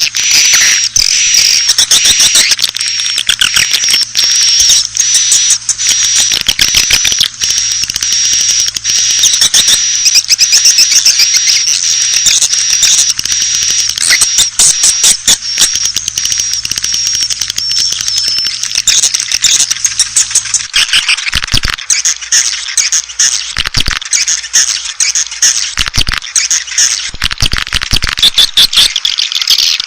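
Swiftlet lure call: a loud, dense chatter of rapid high chirps and clicks from many swiftlets, with a thin high steady tone through most of it. It is the kind of sound played at swiftlet houses to draw the birds in to nest.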